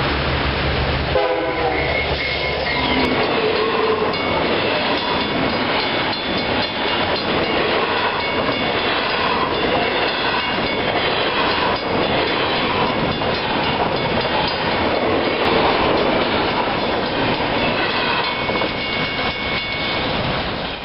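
Model trains running on a layout: a steady running clatter, with held horn-like tones sounding now and then, mostly near the start and again near the end.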